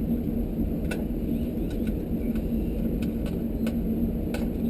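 A steady low rumble with a faint hum throughout, and several faint, short clicks from a magnetic screwdriver backing out small sheet-metal screws.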